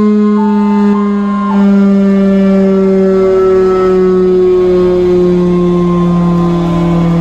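Sirens sounding: a loud, low wail held and slowly falling in pitch, with a higher alternating two-tone siren that stops about a second and a half in.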